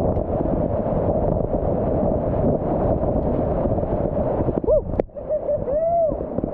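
Steady rushing of whitewater rapids, heard through a muffled camera microphone. Near the end a person's short rising-and-falling calls break in twice, with a sharp click between them.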